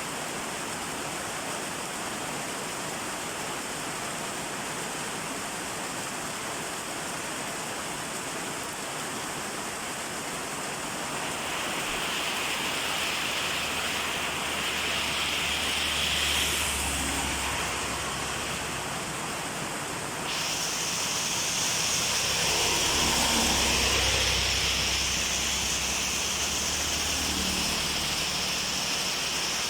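Steady rain falling, getting louder about halfway through, with a sudden step up in hiss about two-thirds of the way in. A low rumble swells underneath twice.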